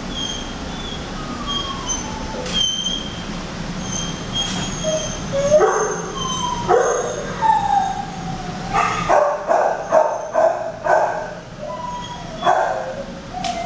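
Several shelter dogs barking, yipping and whining, with a quick run of barks about nine seconds in and drawn-out whines that fall in pitch.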